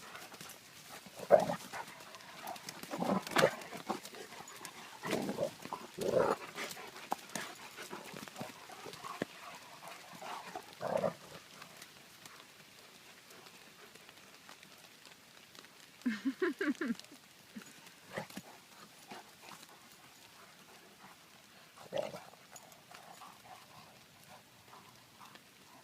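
Two dogs playing, making short scattered noises, with a quick stuttering run of sounds about sixteen seconds in and a single sharp one at about twenty-two seconds.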